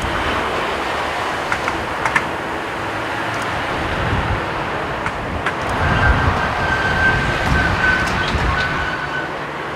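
Jet airliner engines running: a steady roar with a held high whine, and gusts of strong wind buffeting the microphone.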